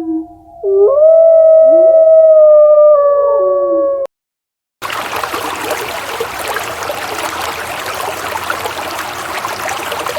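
Canine howling: one long pitched howl lasting about four seconds, with a second voice gliding up underneath and falling away near its end. It cuts off abruptly, and after a short gap a steady rushing noise begins about five seconds in.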